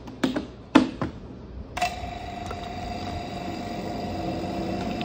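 Refrigeration vacuum pump switched on about two seconds in, then running steadily with a constant whine over its motor noise, pulling a vacuum on the fridge's refrigerant circuit after a compressor replacement.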